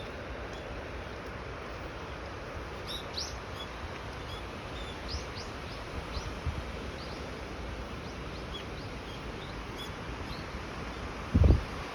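Wild birds giving short, high chirps on and off over a steady hiss. A single low thump near the end is the loudest sound.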